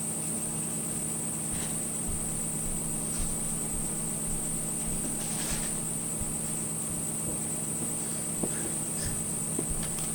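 Steady high-pitched chirring, like night insects, over a low steady hum, with a few faint clicks.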